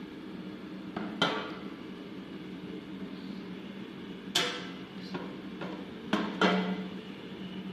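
Air fryer's fan running with a steady hum while it heats, with several sharp clunks and knocks as the appliance and its basket are handled.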